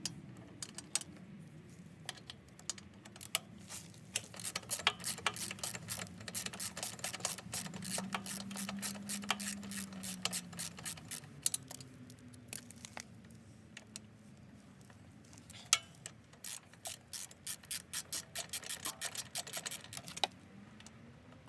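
Ratchet wrench clicking in quick runs of strokes as a rear brake caliper mounting bolt is backed out, with a quieter pause between two runs.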